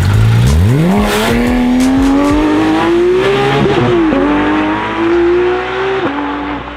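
Japanese performance car's engine pulling away hard from idle, its note climbing steeply and then rising steadily through the revs. The pitch drops at gear changes about four and six seconds in, climbing again after the first.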